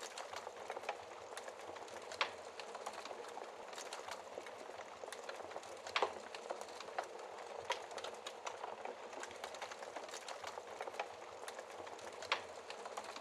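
Wood fire burning in a fireplace: a steady hiss of flames with constant small crackles of burning wood. A handful of louder pops are scattered through, the loudest about halfway.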